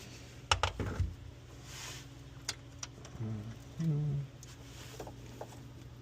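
Sharp clicks and knocks of hand tools and fasteners being worked while the hybrid battery pack is disconnected: a quick cluster about half a second in, then two single clicks. Two short grunts of effort follow in the middle, over a steady low hum.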